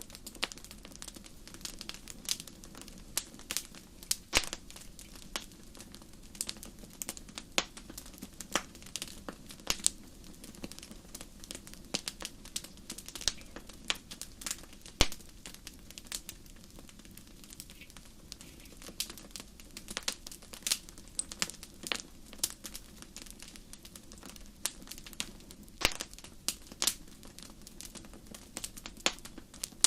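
Wood fire crackling: irregular sharp pops and snaps, several a second, over a steady low background noise.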